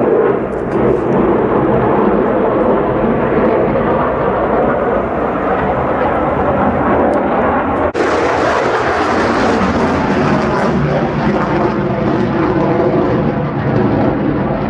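F-35A Lightning II's single Pratt & Whitney F135 afterburning turbofan, a loud, continuous jet engine noise as the fighter flies its display. It breaks for an instant about eight seconds in and comes back hissier.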